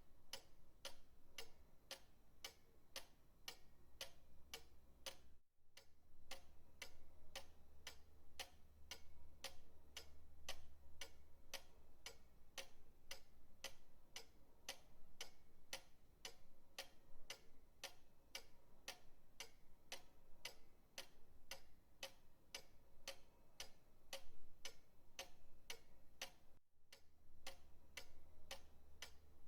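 Pendulum clock ticking steadily and evenly, about three ticks a second. The ticking breaks off for an instant twice where the recording loops.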